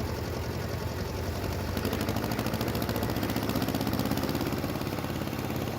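A vehicle engine running steadily with a rapid, even beat, getting somewhat louder about two seconds in.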